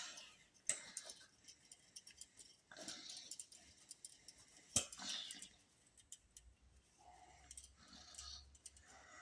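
Faint, scattered clicks and taps with short bursts of scraping and rustling, like small hardware being handled at a workbench. One sharp click comes just under a second in and a louder one near the middle.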